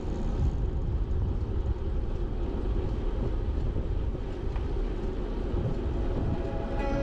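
Steady low rumble of wind and road vibration picked up by a bicycle-mounted action camera while riding.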